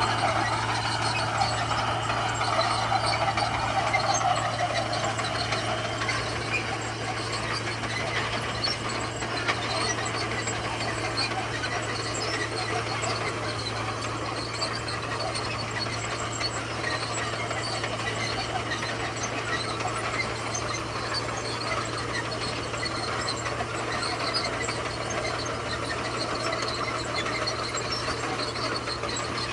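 Komatsu bulldozer's diesel engine running steadily under load, with its steel tracks squealing, loudest in the first few seconds.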